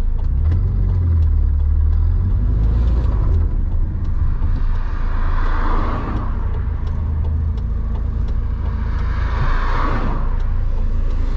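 Renault 8's rear-mounted pushrod four-cylinder engine pulling on the road, heard from inside the cabin: a steady low rumble with road noise. The rumble is heaviest in the first few seconds, and there are two brief whooshes about five and nine seconds in.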